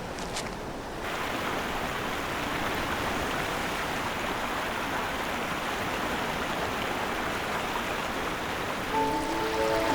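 Steady rush of a flowing stream, an even wash of water noise. Music with held notes comes in near the end.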